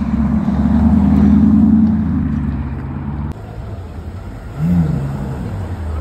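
A car engine accelerating with a steady strong note for about two seconds, then fading. A little over three seconds in, the sound cuts abruptly, and near the end of the fourth second a short rev blip rises and falls.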